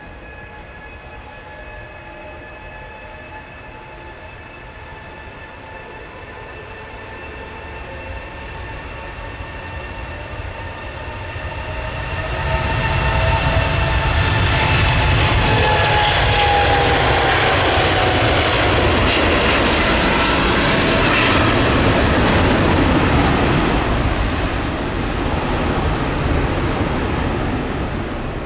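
Airbus A330-900neo's Rolls-Royce Trent 7000 turbofans at takeoff power as the airliner takes off and passes. The engines' whining tones slide slowly down in pitch as the jet noise swells, is loudest for about ten seconds in the middle, then eases a little.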